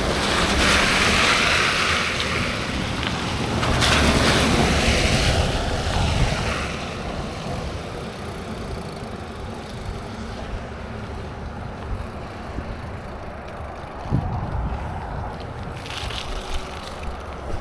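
Wind buffeting the microphone of a cyclist riding along, loudest in two gusts over the first six seconds, then settling to a quieter steady rumble.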